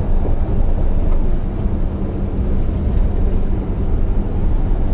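Steady low rumble of engine and road noise inside a moving semi-truck's cab.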